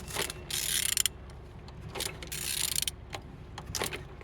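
A Renault F4R four-cylinder engine being turned over by hand with a wrench, with two rasping ratchet strokes and a few sharp mechanical clicks. The engine turns freely.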